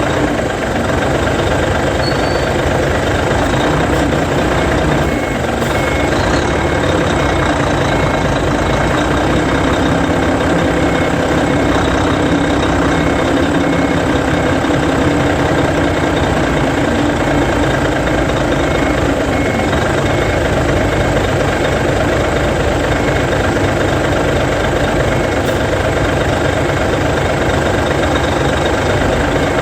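Hino Selega coach's E13C 12.9-litre inline-six diesel running at low speed as the bus reverses into its garage. A reversing alarm beeps evenly and faintly from about five seconds in.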